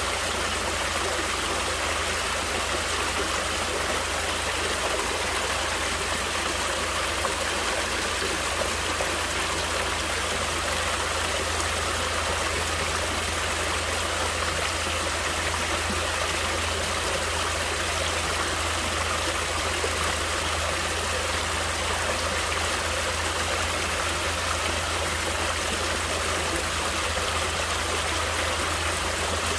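Natural water flowing steadily, an even, unbroken wash of water noise with a constant low rumble beneath it.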